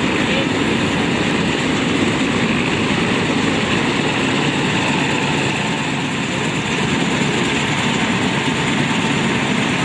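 Shamsher 4WD combine harvester running: a loud, steady mechanical din of engine and machinery with no breaks.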